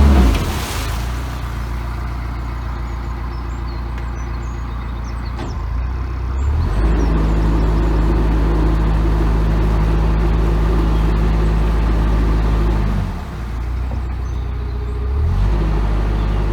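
Narrowboat engine running under way, a steady hum that swells as the throttle is opened about six seconds in, eases back near thirteen seconds, and picks up again near the end.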